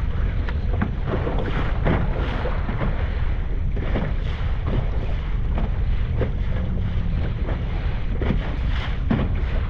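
Wind buffeting the microphone aboard a small crabbing boat rolling in choppy water, with short knocks and splashes of waves against the hull now and then.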